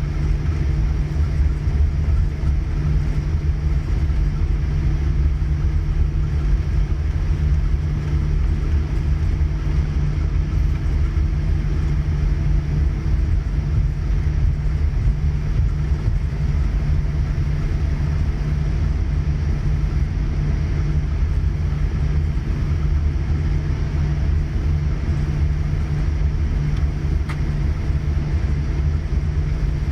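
Boeing 787-9 cabin noise while taxiing: the Rolls-Royce Trent 1000 engines at idle and the aircraft rolling make a steady low rumble, with a steady hum, heard from inside the cabin.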